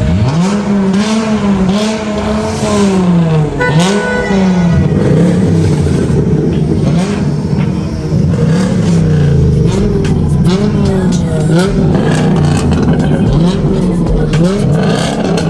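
Car engine being revved: a rev held high for about three seconds, then a string of short throttle blips, about one a second, each rising and falling back.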